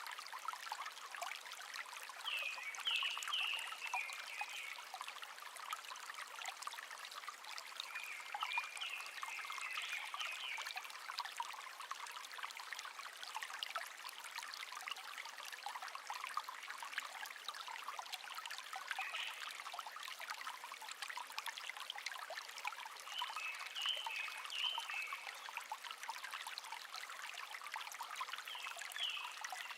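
Shallow stream babbling and trickling steadily, while a songbird sings short, high warbled phrases about five times, several seconds apart.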